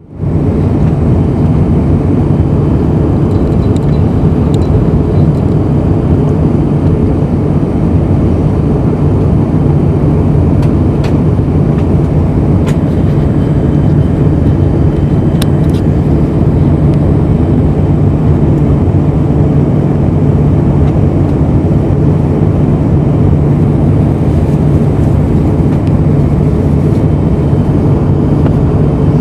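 Steady cabin noise inside an Airbus A320 in flight: the drone of the engines and the rush of air, heavy in the low end with a steady low hum. A few faint clicks come about halfway through.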